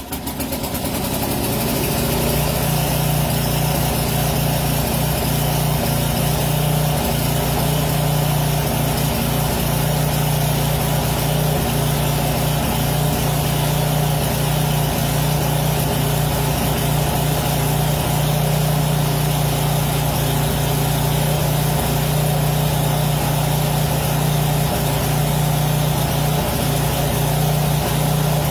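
Small gasoline snowblower engine rising to speed within the first second or two, then running steadily with an even low hum.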